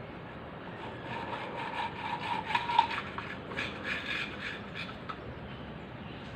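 Irregular scraping and rubbing, in uneven runs, busiest from about one to five seconds in.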